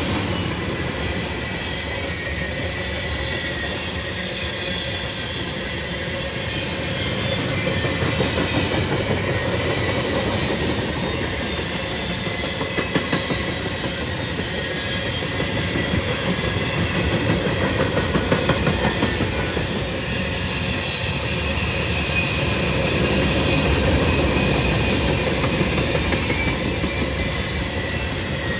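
Freight cars of a long CSX train rolling past, wheels clacking steadily over the rail joints, with thin, high, steady wheel squeal on top.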